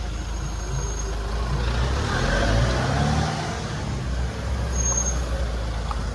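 A motor vehicle's engine and road noise, swelling and rising in pitch about two to three seconds in, then easing off.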